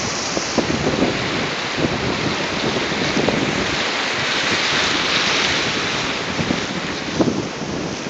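Ocean surf washing in and breaking on the shore, swelling to its loudest in the middle, with wind buffeting the microphone.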